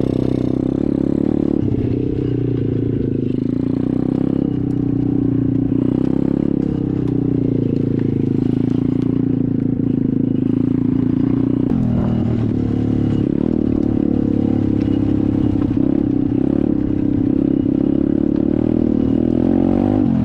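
SSR 125 pit bike's single-cylinder four-stroke engine running at fairly steady low revs, with small rises and falls in speed and a brief dip about twelve seconds in.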